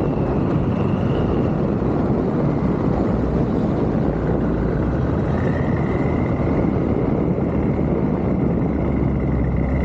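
BMW 6 Series N63TU twin-turbo V8 exhaust running at a steady, even note, with no revving. A faint high whine comes in about halfway through.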